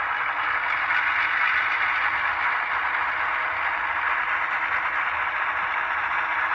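ESU LokeSound sound decoder in an HO scale ES44AC model playing the GE GEVO diesel engine sound through the model's onboard speaker, running steadily.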